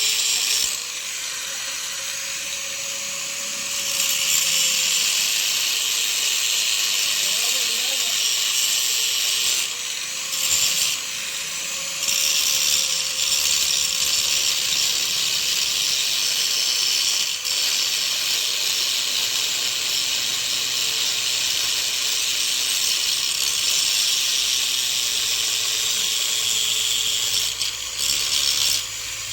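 Angle grinder cutting the steel part of a chaff-cutter machine: a steady high-pitched hiss of the disc over the motor's steady tone, easing off briefly three times.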